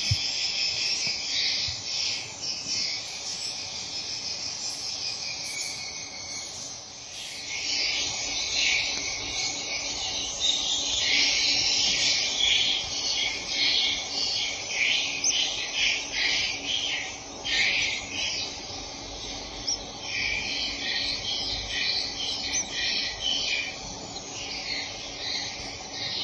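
Swiftlets chirping and twittering in a dense, continuous high-pitched chorus, thinning briefly a quarter of the way in.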